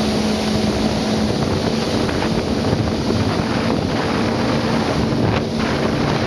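Jet ski engine running steadily with a constant hum, under wind noise on the microphone and the wash of water.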